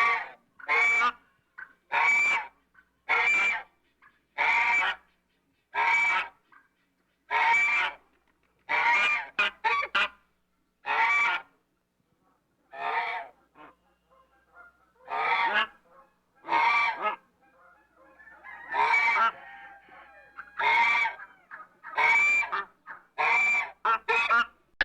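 A bird calling over and over: short loud calls about once a second, with a few calls coming in quick pairs around the middle and near the end.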